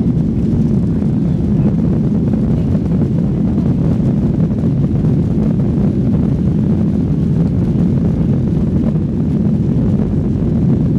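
Steady low rumble of a Boeing 737-800's engines and airflow, heard from inside the passenger cabin.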